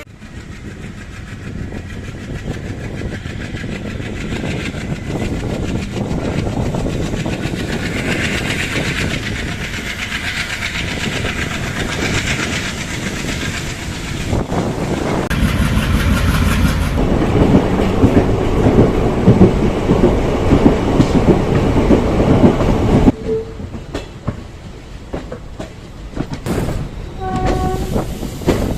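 Passenger train running on the rails, wheels clattering over the track, getting louder over the first twenty seconds and then dropping suddenly. A short horn-like tone sounds near the end.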